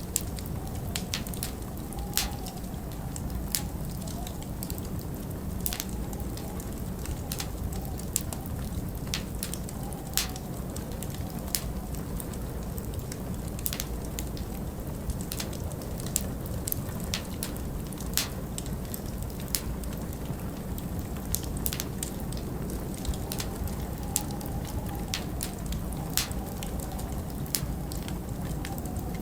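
Wood fire crackling in a fireplace: sharp pops and snaps, several every second at uneven intervals, over a steady low rumble of storm wind that now and then carries a faint wavering howl.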